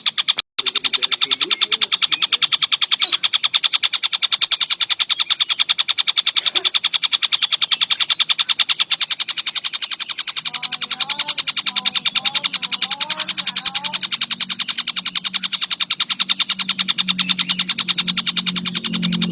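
Kingfisher (tengkek buto) calling non-stop: a rapid, unbroken series of sharp, high chattering notes, many a second, densely packed. Faint short rising whistles come in about halfway through.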